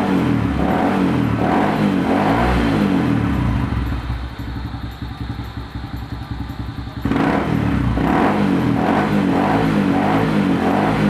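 Kawasaki Fury motorcycle engine running after a carburetor tune-up, with a throttle-response check. It goes quieter about four seconds in and picks up suddenly again about three seconds later.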